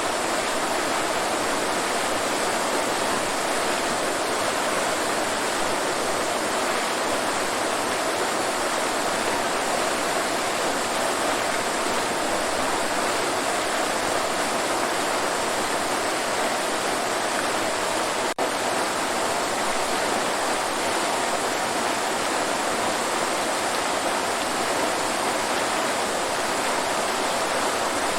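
Waterfall: a steady, even rush of falling water, with a momentary dropout about two-thirds of the way through.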